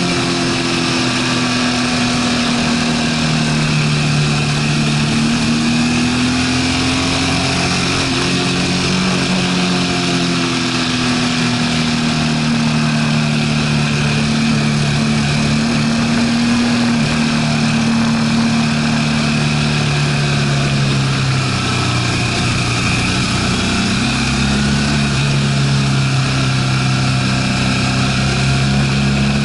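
BMW R1200RT's flat-twin boxer engine running at a steady road speed, its note rising and falling gently with the throttle through the bends, over a constant rush of wind and road noise.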